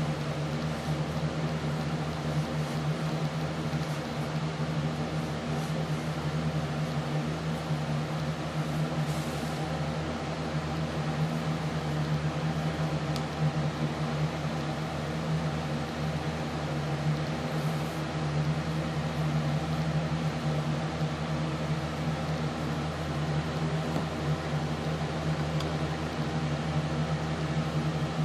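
A steady machine hum with several even tones and a light hiss, unchanging throughout, with a few faint ticks.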